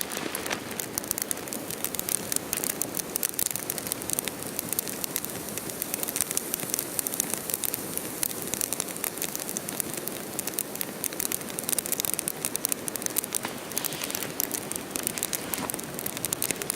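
Small fire of dry leaves and wood shavings crackling, with dense, rapid snaps over a steady hiss as it catches.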